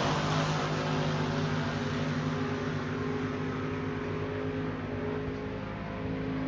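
A drag racing car's engine running hard, its sound fading steadily as the car goes away down the strip.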